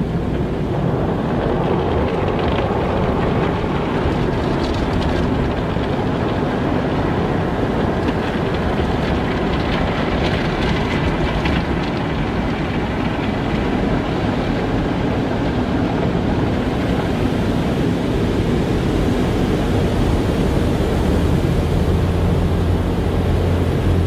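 Car wash running: a steady, loud rumble of spraying water and machinery, with a deeper hum growing stronger near the end.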